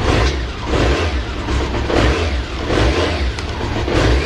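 BMW K1's inline-four engine being revved in short throttle blips, about five in four seconds, each rising and falling in pitch. It is run to show its condition, which the seller lists as idling stably with no abnormal noise.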